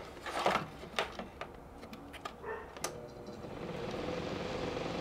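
Small clicks and taps of metal parts being handled while a reverse-threaded nut on a fan's motor shaft is turned, followed from about three and a half seconds in by a steady low hum.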